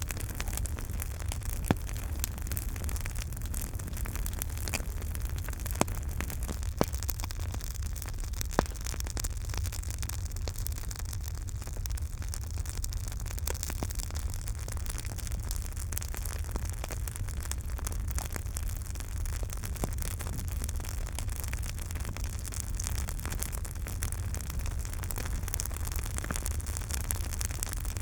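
Campfire burning: wood crackling with many small snaps over a steady low rumble and hiss, and four louder pops in the first nine seconds.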